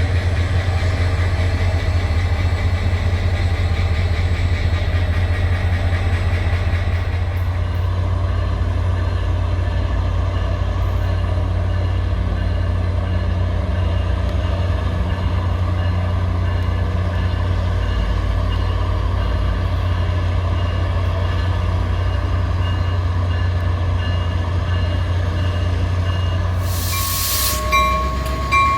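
Diesel locomotive engine running with a steady low drone. Near the end there is a sharp hiss of released air, then short repeated beeps and a slowly rising whine.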